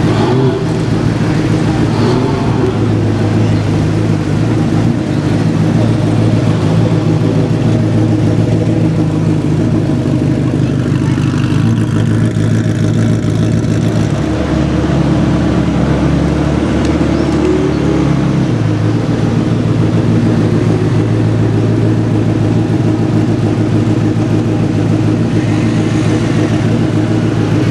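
Ferrari F40's twin-turbo V8 idling steadily and loud. Its note shifts for a few seconds past the middle, ending in a short rise in pitch.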